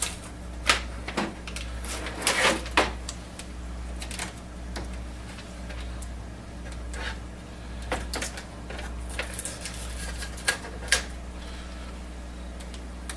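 Scattered plastic clicks and knocks with brief rustles as packing pieces are pulled off an inkjet printer's paper tray, over a steady low hum.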